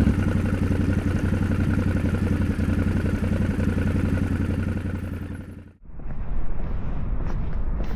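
Yamaha Ténéré 700's parallel-twin engine running steadily at idle, cutting out abruptly near the end; irregular clattering and ticking sounds follow.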